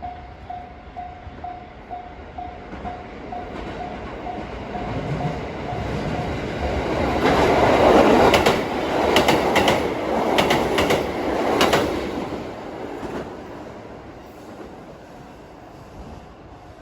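JR Central KiHa 85 series diesel limited express passing over a level crossing. It builds up, is loudest in the middle with groups of wheel clicks over the rail joints, then fades away. A level crossing bell rings about twice a second, clear before the train gets close and again near the end.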